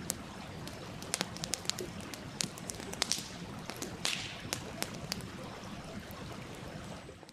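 Wood campfire crackling, with irregular sharp pops, over a stream running steadily; it fades out at the very end.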